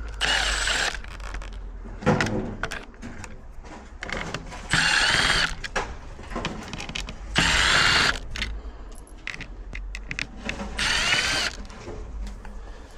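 Power drill-driver run in four short bursts of about a second each, with a whine that shifts in pitch. Clicks and knocks sound between the bursts.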